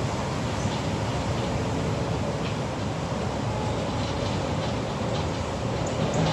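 Construction machinery running with a steady rumble and a few faint clicks.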